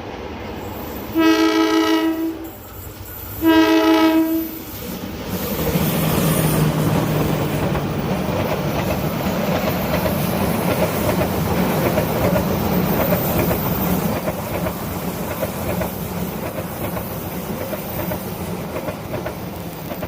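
Diesel-electric locomotive's horn sounding two blasts of about a second each, then the train passing close by: the engine running with a steady low tone and the wheels clattering over the rail joints.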